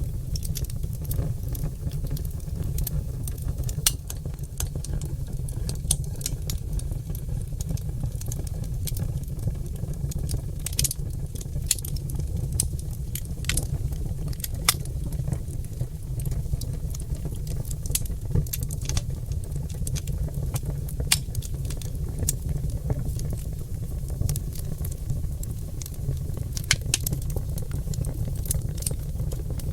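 Oak log fire crackling, with frequent sharp, irregular pops over a steady low rumble of the burning.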